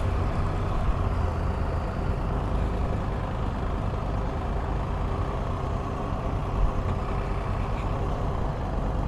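Can-Am Spyder RT running steadily under way, its engine and road and wind noise making an even drone.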